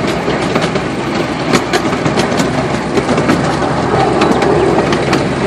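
Small park ride train running with riders aboard: a steady engine and running rumble, with frequent irregular sharp clicks and rattles.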